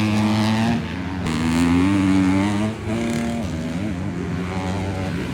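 Motocross bikes racing, their 250cc four-stroke engines revving up and down with shifting pitch, several engines overlapping.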